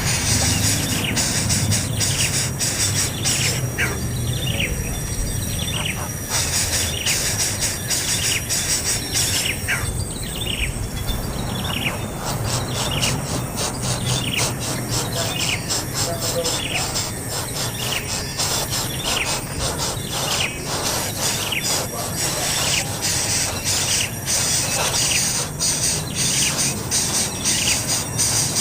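A bird giving many short, falling chirps, a few each second, over a dense high buzzing of insects.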